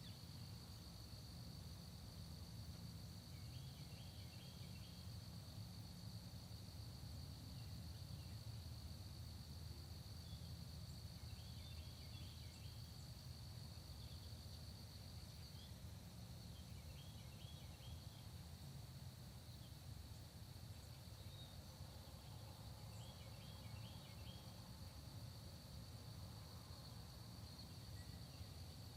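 Faint dawn countryside ambience: insects such as crickets give a steady high trill, while a songbird repeats a short phrase of a few quick notes every several seconds, over a low rumble.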